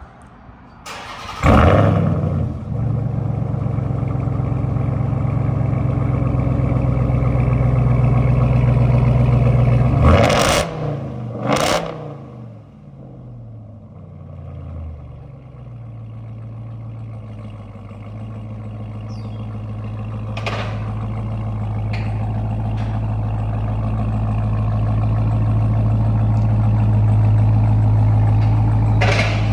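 Ram TRX's supercharged 6.2-litre V8 through a freshly fitted straight-pipe exhaust, loud. It starts up with a loud burst about a second and a half in and idles steadily. Two sharp revs come around ten seconds in, then it settles back to a steady low rumble that slowly grows louder.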